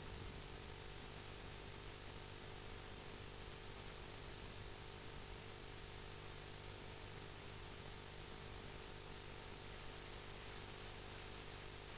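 Steady background hiss with a low electrical hum and a thin high whine; no birdsong or other distinct sounds.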